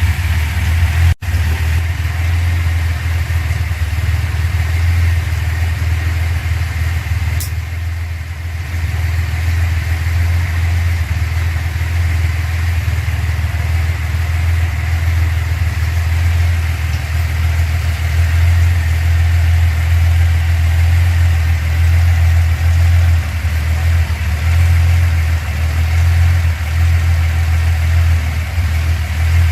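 1970 Datsun 240Z's freshly rebuilt 2.4-litre straight-six idling steadily, broken once by a very brief gap about a second in.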